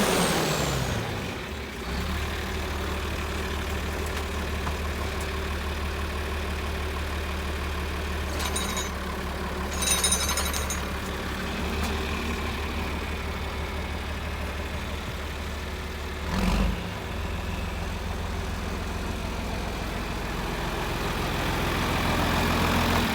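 1972 John Deere 4320 tractor's six-cylinder diesel engine dropping from a higher speed to a steady idle in the first couple of seconds, then idling evenly. A few brief high-pitched sounds come around ten seconds in, and a short low thump about sixteen seconds in.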